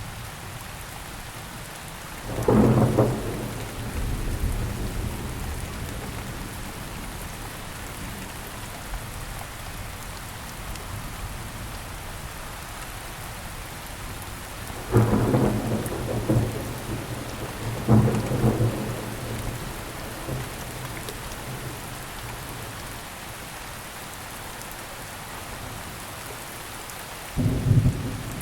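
Steady rain falling, with rolls of thunder breaking in four times: a few seconds in, twice in the middle about three seconds apart, and again near the end.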